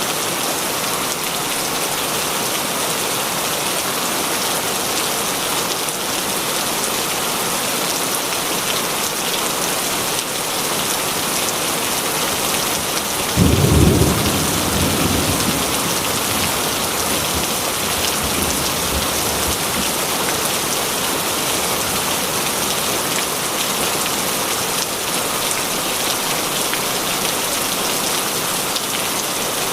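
Steady heavy rain, with a single clap of thunder rumbling in about halfway through and dying away over a few seconds.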